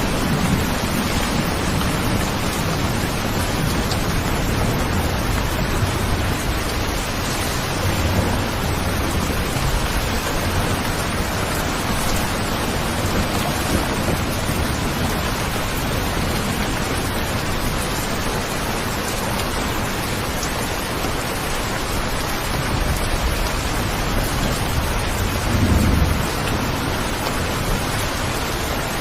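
Steady heavy rain with low rumbles of thunder rolling in a few times, the loudest one near the end.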